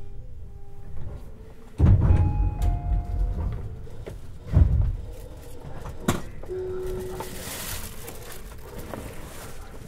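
Underfloor running sound of a Tobu 50090-series electric train. Faint steady motor tones step down in pitch. Two heavy low thuds come about three seconds apart, followed by a sharp click, a short tone and a brief hiss near the end.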